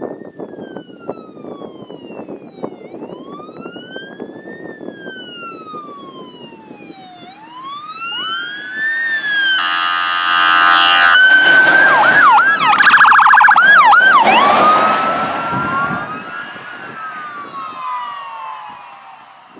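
Emergency vehicle sirens from a responding fire engine and ambulance. A slow rising-and-falling wail grows louder, a horn blasts about ten seconds in, and fast yelping sweeps follow at the loudest point. The sound fades over the last few seconds.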